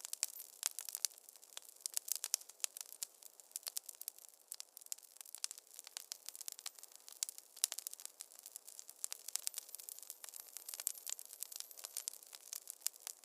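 Wood fire crackling in a fireplace: many irregular sharp snaps and pops over a faint hiss.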